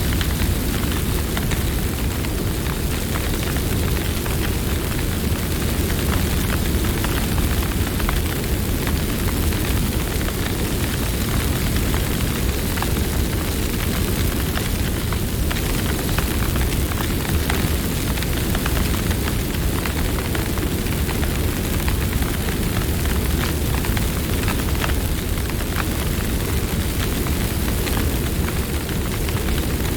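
Campfire burning: a steady low rush of flames with many small crackles and pops scattered throughout.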